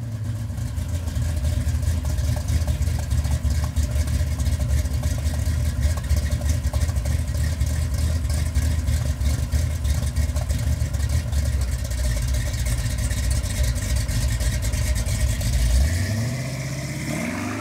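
A classic muscle car's engine idling with a choppy, uneven exhaust beat, then revving up once near the end.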